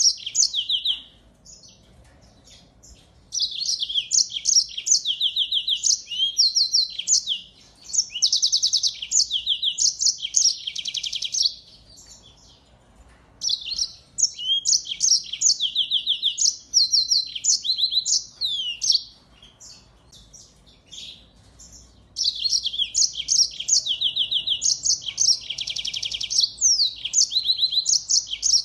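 A finch singing clearly in long bouts of rapid high trills, twitters and buzzy phrases, broken by pauses of a second or two.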